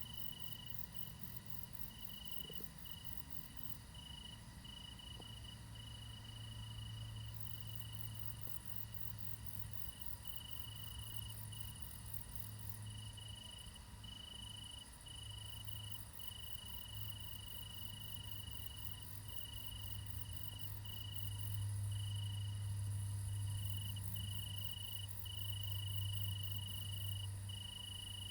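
Crickets chirping in long, steady trills broken by short pauses. Under them runs a low steady rumble that swells about two-thirds of the way through.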